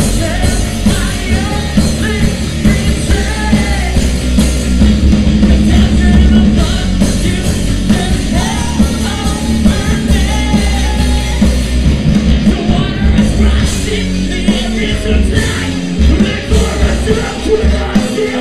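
Live post-hardcore rock band playing loudly, with distorted guitars, bass and drums, and a singer's voice over the top.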